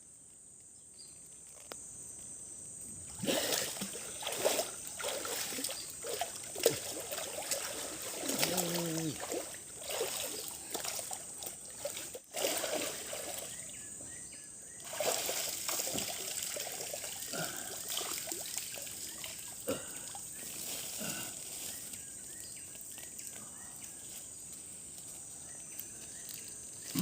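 Water splashing, sloshing and trickling in a shallow river, in irregular bursts, over a steady high-pitched chorus of crickets.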